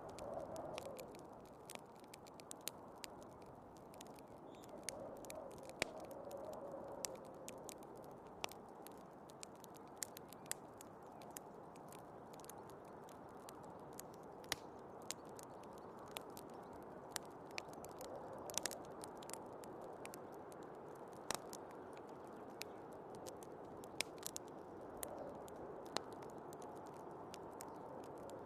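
Wood fire crackling, with irregular sharp pops and snaps, over a steady low rush of snowstorm wind that swells gently now and then.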